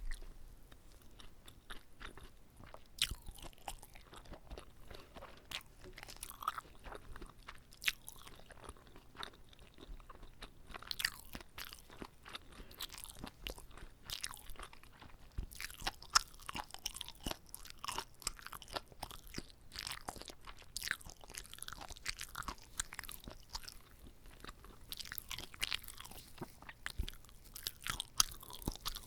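Close-miked chewing of a whole gimbap roll: irregular crunchy, wet crackles of seaweed, rice and vegetable filling being chewed, with the chewing getting busier about a third of the way in.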